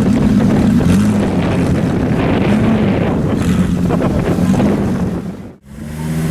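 A car engine running with a low, steady, slightly wavering note, with wind noise on the microphone. The sound drops out abruptly for a moment about five and a half seconds in, then comes back.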